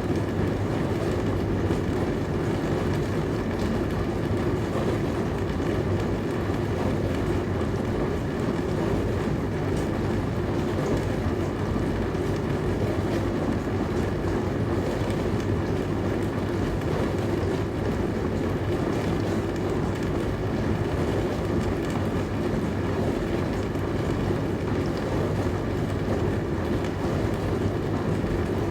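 Dishwasher running: a steady, unchanging low rumble with a fainter hiss of spraying water.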